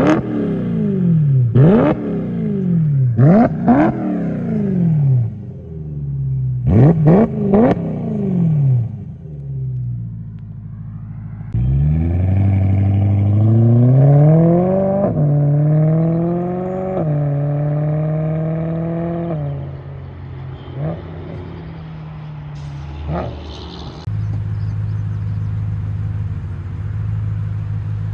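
BMW M3's S65 4.0-litre V8 with a muffler delete, unmuffled. It is given several sharp blips of the throttle, each rising fast and falling back. Then it pulls hard with the pitch climbing through two gear changes, eases off, and settles into a steady drone.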